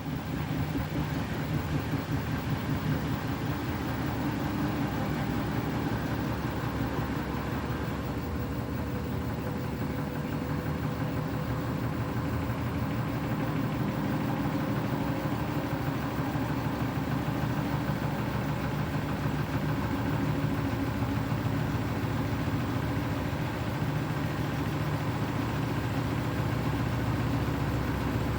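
Beko WTK104121W washing machine on its final spin, with a steady motor and drum drone and a fast, even throb. The load is sudsy and the drum is running a little out of balance.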